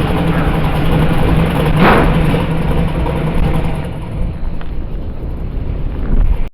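Car engine running steadily with road noise, a constant low hum, while driving. It eases off slightly about four seconds in.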